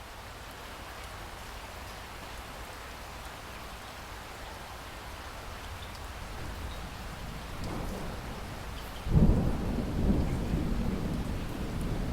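Steady rain, slowly building, then a sudden loud thunderclap about nine seconds in that rolls on as a low rumble.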